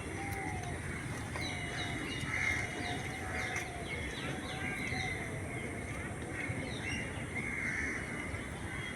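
Birds calling, a flurry of short, quick chirps that is busiest in the middle, over a steady background rumble.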